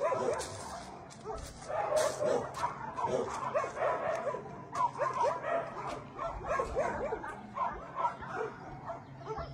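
Shelter dogs barking and yipping in many short, overlapping barks.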